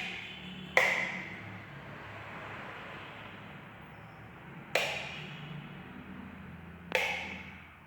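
Four sharp knocks, two close together near the start and two more spaced out later, each ringing and echoing away over about a second.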